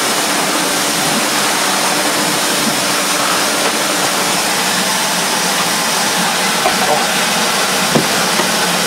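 Vintage Electrolux Z345 Automatic cylinder vacuum cleaner running steadily, its motor and airflow making an even rushing noise, with a few small clicks near the end.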